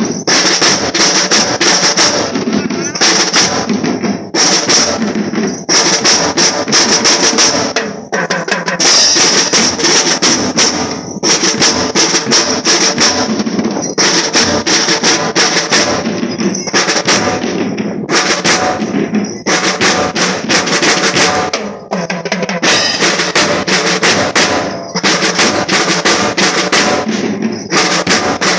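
School marching drum band playing a march: snare drums rolling and beating a steady rhythm with bass drums under them, the strokes coming in short phrases with brief breaks between.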